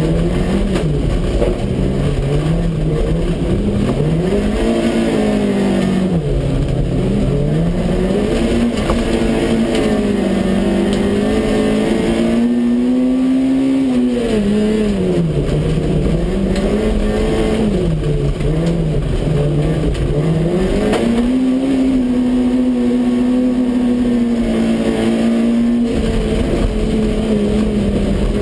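Citroën AX GTI's four-cylinder petrol engine heard from inside the cabin while racing on dirt, revving up and dropping back over and over as the driver accelerates, changes gear and lifts for corners. The note holds steadier for a couple of seconds near the middle and for a longer spell near the end.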